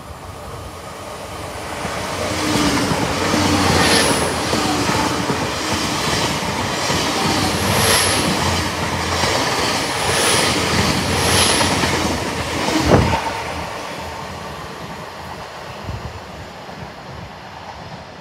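Great Western Railway Class 800-series Intercity Express Train running through the station at speed on its diesel engines. The rumble swells as it comes in, and the wheels clack over the rail joints a few times as the coaches pass, with a last loud clack near the end of the train. It then fades away.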